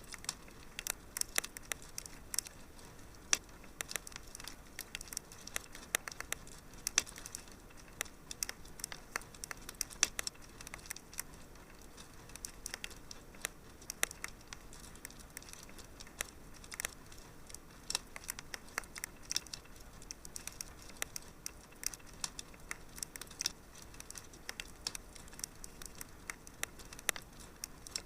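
Wood fire crackling in a fireplace: irregular sharp pops and snaps, many each second, over a soft steady hiss.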